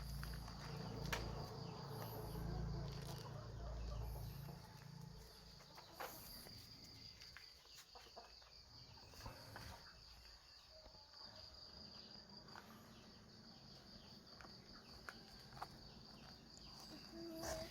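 Faint, steady high-pitched insect trill that breaks off now and then, with scattered light clicks and a low rumble during the first few seconds.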